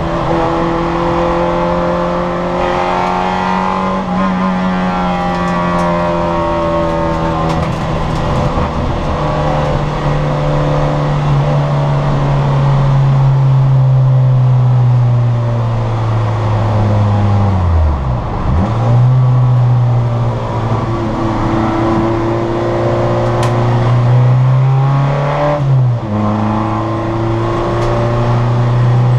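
Citroën Saxo VTR racing car's four-cylinder engine at high revs under full throttle. Its pitch climbs through the gears and falls at each gear change, with one long deep fall in revs a little past halfway before it pulls back up, and another quick shift near the end.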